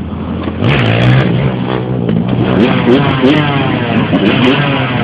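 Dirt bike engines revving, their pitch climbing and falling again and again, getting louder about half a second in.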